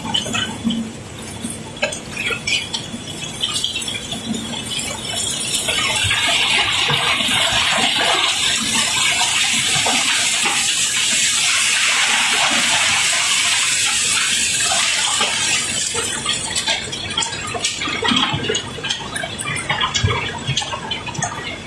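Cobblestones being unloaded: scattered clattering knocks of stone on stone, swelling about six seconds in into a continuous rush of rocks pouring and sliding that lasts about ten seconds, then thinning back to scattered clattering.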